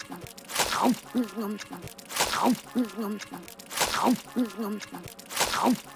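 Cartoon chewing sound effect of a girl with her mouth stuffed full of sandwich: a squelchy, falling swish followed by muffled, wavering mouth-full humming. The same short bit repeats as a loop about every second and a half, four times.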